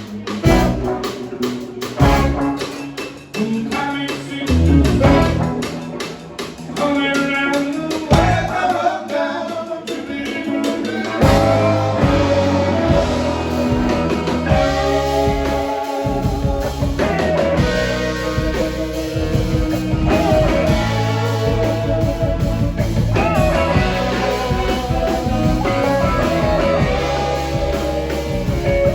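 Live band playing blues-rock: electric guitar over drums and bass. It starts sparse, with separate drum hits and guitar phrases, and the full band comes in together about a third of the way through.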